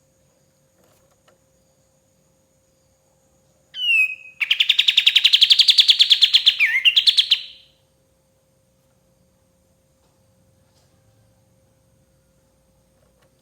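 Kapas tembak songbird singing: one short falling note, then a fast rattling trill of about ten notes a second that lasts about three seconds and stops.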